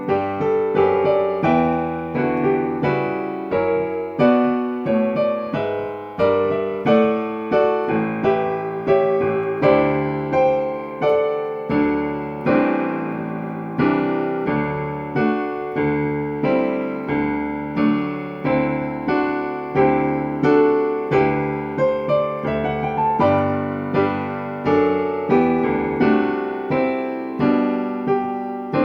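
Solo piano music: a continuous flow of struck notes, each fading after it is played.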